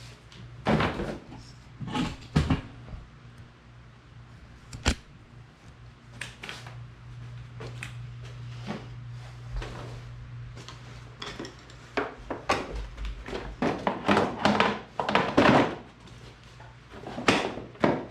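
Irregular knocks, thuds and clatter of a plastic ride-on toy body being handled and set onto its metal frame, busiest in the last few seconds, with one sharp click about five seconds in. A steady low hum runs underneath.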